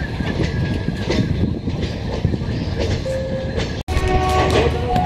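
Passenger train coaches rolling slowly over points into a station, wheels clattering with a brief squeal, heard from an open coach door. The sound cuts off abruptly near the end.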